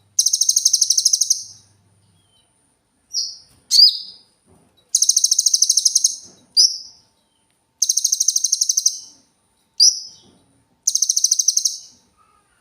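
A cililin bird singing: four rapid, high-pitched trills of about a second and a half each, separated by short, sharp single notes.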